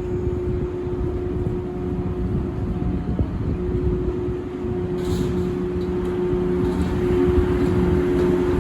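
Electric train running, a steady rumble with a held humming tone.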